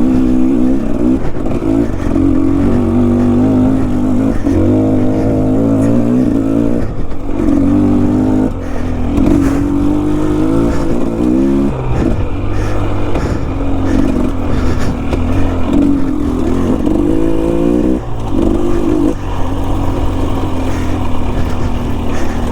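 Enduro dirt bike engine working under changing throttle on a steep technical trail, its revs rising and falling over and over, with sudden drops in revs several times.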